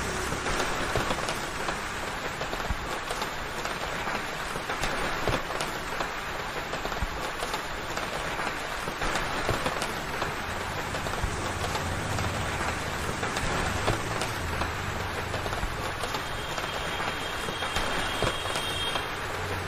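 Steady monsoon rain falling, a continuous hiss with many individual drops tapping on surfaces. A low rumble swells and fades in the middle.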